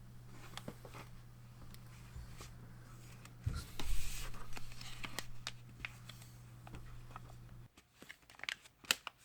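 A sheet of paper being folded and creased by hand: scattered soft crinkles and taps, with a louder rustle about three and a half seconds in.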